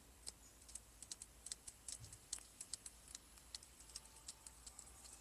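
Near silence with faint, sharp clicks, irregular, a few a second, over a low hum.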